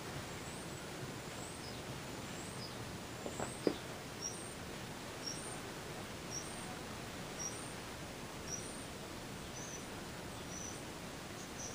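Steady hiss with a small bird chirping softly, a short high two-note chirp repeated about once a second. A brief squeak about three and a half seconds in is the loudest sound.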